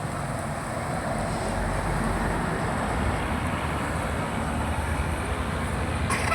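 Road traffic noise: a vehicle driving, with a steady low engine rumble and tyre noise. There is a brief sharp click near the end.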